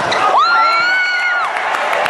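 A spectator's high-pitched yell that rises quickly, holds for about a second, then drops away, over the general noise of a basketball game in a gym.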